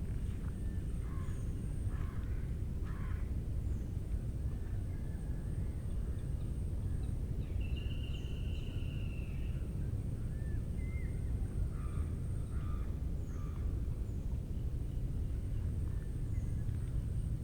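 Wild birds calling in a forest: scattered short calls and chirps, with one longer arched whistle about halfway through. A thin, steady high insect drone runs beneath them, over a constant low rumble.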